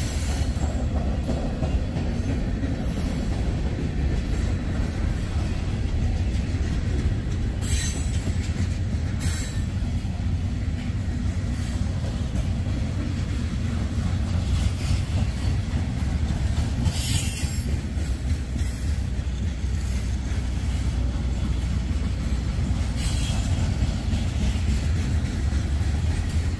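Freight cars rolling past on the rails: a steady low rumble, broken by a few short high-pitched wheel squeals.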